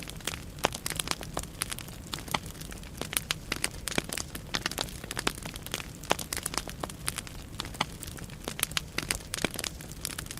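Firewood burning in a fireplace, crackling and popping irregularly over a low steady rumble of the flames.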